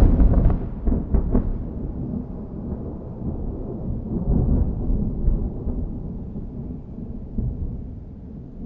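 Thunder: sharp crackling in the first second or so, then a long low rolling rumble that slowly fades.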